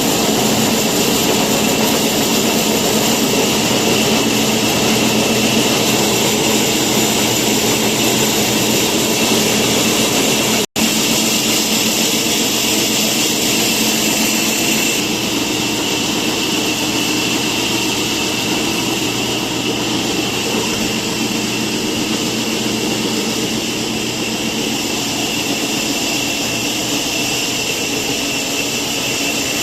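Woodworking power machine running steadily, a continuous whine with a dead-silent gap of a split second just under 11 s in, where the video is cut.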